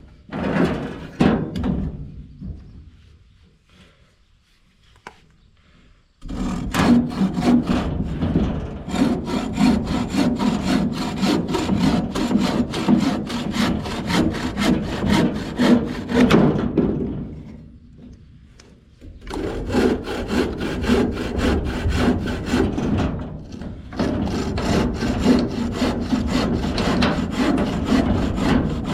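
Saw cutting through wood in fast, even strokes. It runs in two long bouts with a short pause about two-thirds of the way through, after a few knocks at the start.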